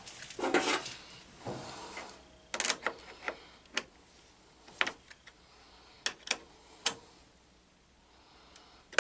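Irregular metallic clicks and short scrapes of a hand wrench tightening a lawn tractor's battery cable terminal, with a longer scraping rattle about half a second in.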